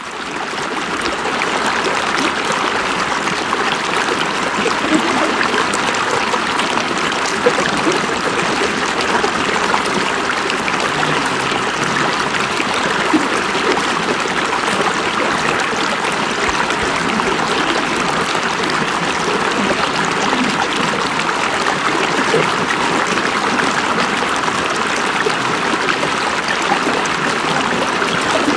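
River water flowing over rocks: a steady rushing and babbling that fades in at the start and holds even throughout.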